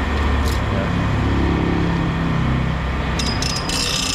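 An engine or motor running steadily with a low drone, and a short burst of clattering about three seconds in.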